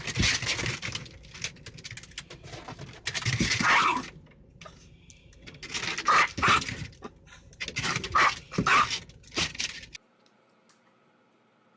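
A dog making a run of loud, noisy vocal sounds in bursts. They stop abruptly about ten seconds in.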